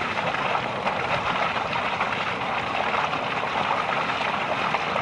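Heavy rain and hail of a hailstorm pelting down: a steady, dense hiss with faint scattered ticks of impacts.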